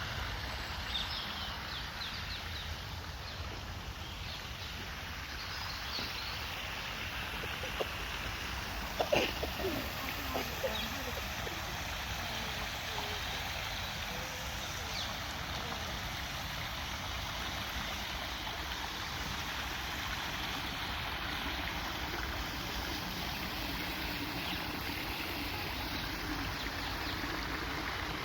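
Steady rushing of flowing water, like a stream, with a few short knocks about a third of the way in.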